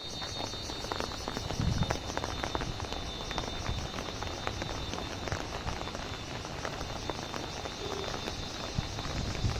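Heavy rain, with dense raindrops pattering on an umbrella overhead. A faint steady high-pitched tone sits under it.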